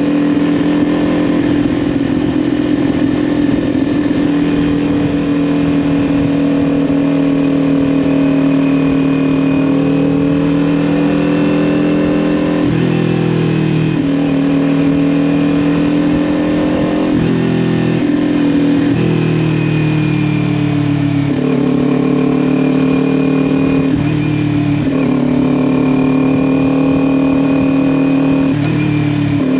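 Kawasaki Ninja 400's 399 cc parallel-twin engine running through an aftermarket Leo Vince LV10 exhaust while the motorcycle is ridden. The engine note holds steady for about the first twelve seconds, then changes pitch abruptly several times as the rider works the throttle and gears.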